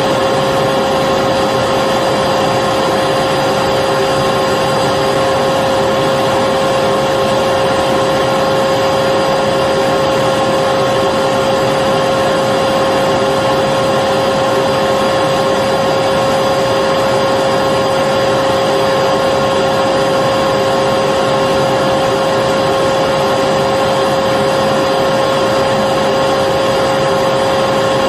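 Vacuum cleaner motor running steadily: a constant high whine over an even rushing hiss of air, with no change in speed.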